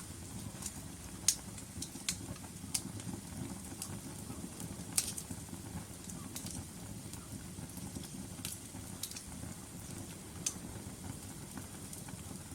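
Wood logs burning in a fireplace: a steady low rush of flame with sharp, irregular crackles and pops, about seven of them, the loudest a little over a second in.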